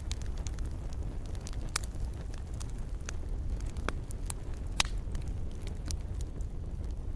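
Burning wood campfire: a steady low rush of flame with scattered crackles and sharp pops, the loudest pop nearly five seconds in.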